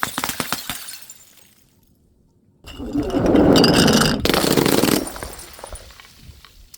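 Glass breaking: a scatter of shards clinking and settling, then, after a brief pause, a sudden loud crash of shattering glass that lasts about two seconds, with a sharper burst of breaking near its end before it dies away.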